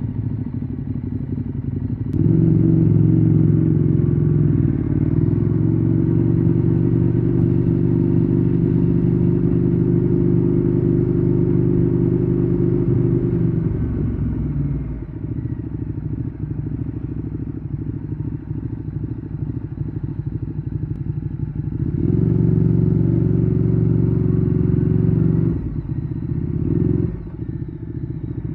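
Ducati Streetfighter 848's L-twin engine running through a Termignoni exhaust at a steady pitch. It gets louder a couple of seconds in, drops back about halfway, swells again later and falls off near the end.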